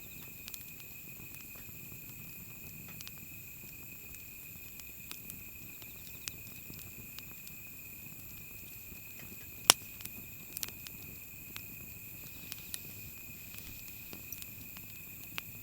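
Wood fire crackling: scattered sharp pops and snaps, the loudest one about ten seconds in, over a steady high-pitched drone.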